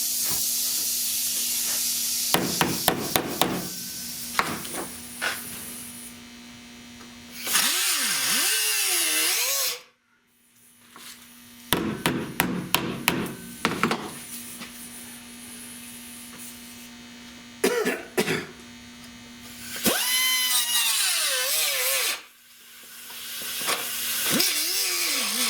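A handheld power grinder works sheet steel in short runs, and its whine falls away as it winds down after each run. Between the runs come quick clusters of sharp hammer taps on the metal, with a steady low hum underneath.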